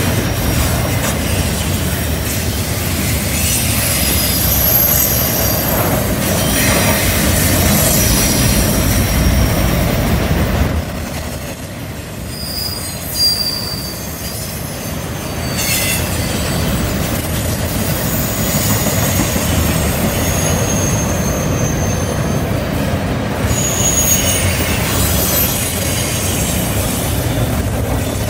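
Double-stack container well cars of a freight train rolling past on a curve: a steady rumble of steel wheels on rail, with thin high-pitched flange squeal coming and going. The rumble eases for a few seconds about halfway through.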